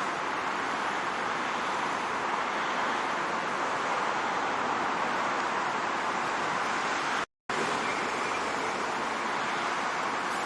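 Steady rushing noise of wind and road traffic heard while riding a bicycle, broken by a brief dropout to silence about seven seconds in.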